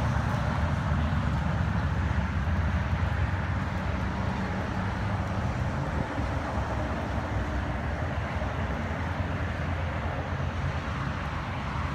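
Steady low engine rumble of a car idling, over outdoor background noise.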